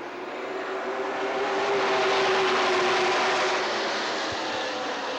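A field of eight race trucks accelerating to the green flag at full throttle. The engine noise swells over about two seconds as the pack passes, then fades.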